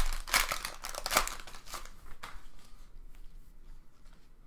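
Crinkling of foil trading-card pack wrappers and cards being handled, dense for about two seconds and then thinning to faint rustles.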